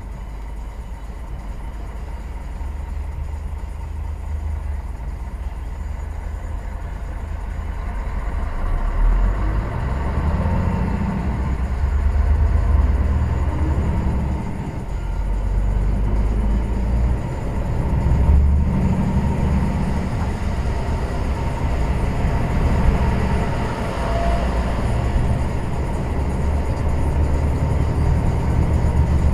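Heavy goods vehicle on the move: a deep engine and road rumble that swells and eases.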